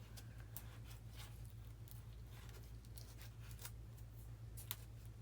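Faint scratching and scattered clicks of a hobby blade cutting into and working the foam of an RC airplane, over a low steady hum.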